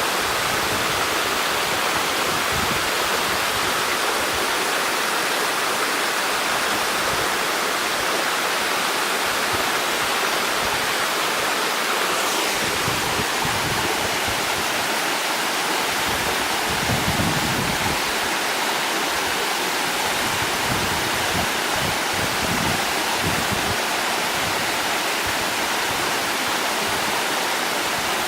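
Inumuki Fudō waterfall pouring, a steady, even rush of falling water that holds at the same level throughout.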